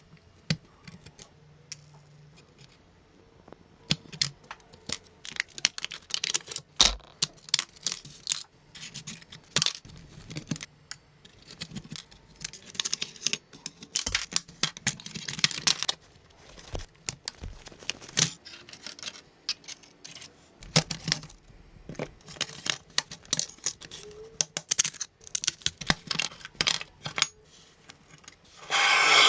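Irregular clicks, knocks and short scraping and rubbing strokes of hand work on an old car, with a few longer stretches of scrubbing or tearing.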